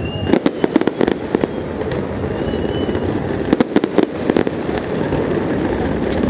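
Fireworks going off: two rapid volleys of sharp crackling bangs, about a second long each, one near the start and one about halfway through, over a continuous rumble of further explosions.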